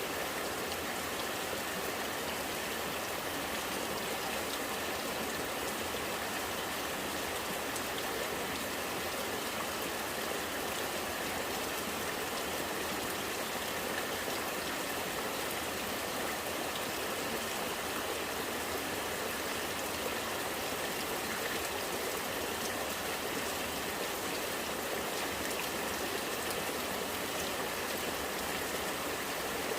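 Rain falling steadily, with rainwater running and gurgling.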